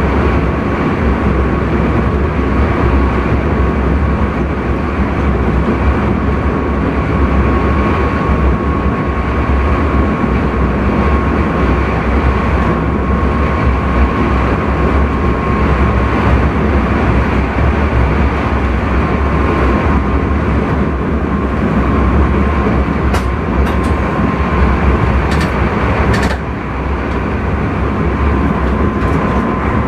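Intercity train running, heard from inside the driver's cab: a steady rumble and rush of running noise with a faint constant whine. A few short clicks come about three quarters of the way through.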